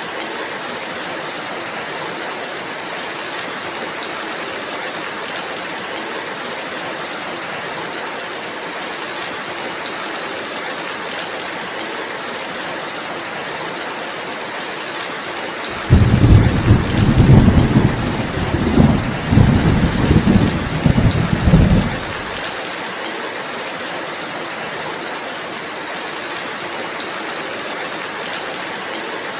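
Steady rainfall, with a loud, deep rumble of thunder about sixteen seconds in that lasts some six seconds and then cuts off, leaving the rain alone again.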